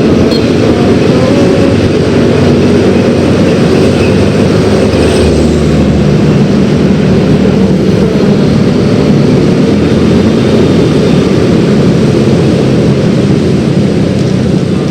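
Yamaha X-Ride 113cc scooter's single-cylinder engine running steadily while riding, under a continuous rush of wind and road noise.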